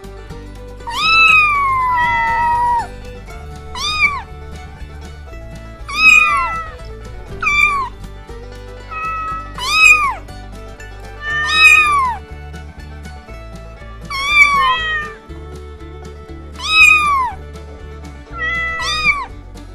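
Domestic cat meowing over and over, about a dozen meows a second or two apart, each rising and then falling in pitch; the first, about a second in, is drawn out longer. Background music plays underneath.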